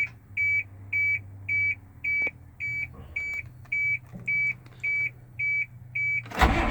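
Dashboard warning chime of a Chevy C6500 truck beeping steadily about twice a second, a dozen beeps, with the key on and a low hum underneath. Near the end the truck's Caterpillar diesel engine cranks and catches.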